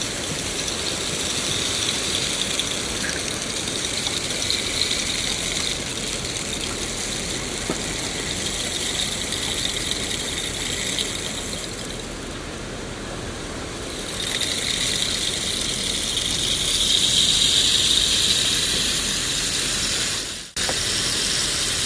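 Steady rain ambience: a continuous hiss with a high-pitched band that swells and fades. About twenty seconds in the sound drops out abruptly for a moment, then resumes.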